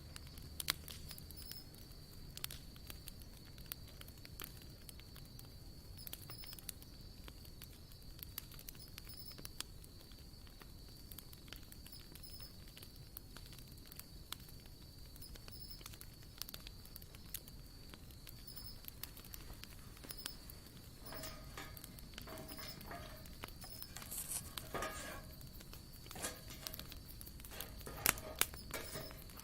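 Wood campfire crackling, with scattered small pops and snaps and a few louder ones near the end, over a steady high-pitched whine in the background.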